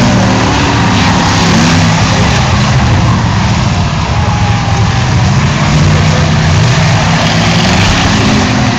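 Several eight-cylinder demolition-derby car engines running and revving together, rising and falling in pitch, loud throughout.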